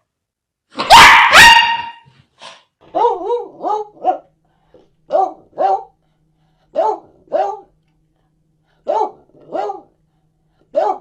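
Dog barking: two loud, sharp barks about a second in, then pairs of quieter, lower barks repeating every second or two.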